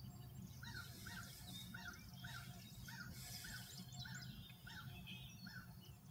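A bird calling a run of about nine short, evenly spaced notes, roughly two a second, with fainter chirps from other birds, over a steady low rumble.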